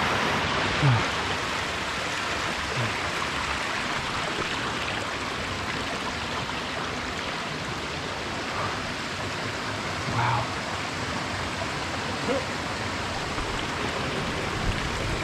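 Steady rush of water flowing down a rocky mountain stream.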